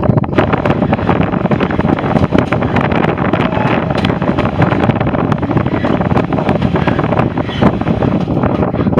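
Wind buffeting the microphone: a loud, steady rumble broken by constant crackles.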